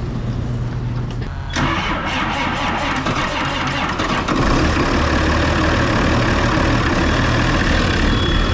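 Vehicle engine starting: it catches with a sudden surge about a second and a half in, then runs, growing louder about four seconds in.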